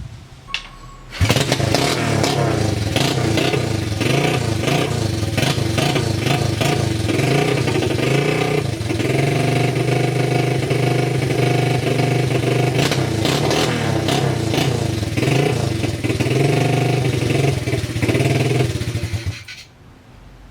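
Impact wrench hammering a nut onto the pit bike's engine, a loud continuous rapid rattle that starts suddenly about a second in and stops shortly before the end.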